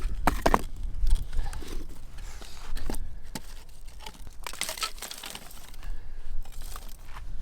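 Dry tinder and kindling being handled and snapped for a campfire: irregular crackly crunching with a few sharp scraping strokes, the loudest cluster about four and a half seconds in.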